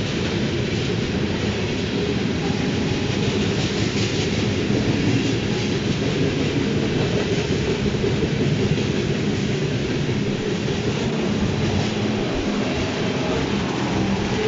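Freight train rolling past, with a steady noise of wagon wheels on the rails and some clickety-clack over the rail joints.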